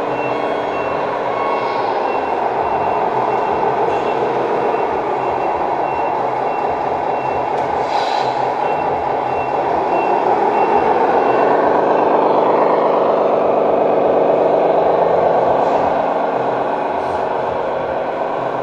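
Sound module of a 1:14 scale RC truck playing a diesel truck engine through its small speaker, rising and falling with the throttle. A reversing beeper sounds in an even pattern through the first half.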